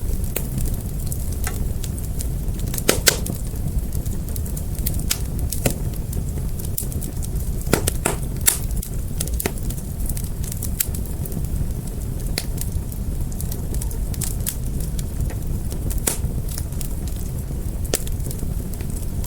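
Fire crackling: irregular sharp pops and snaps over a steady low rumble, with a few louder pops about three seconds in and around eight seconds in.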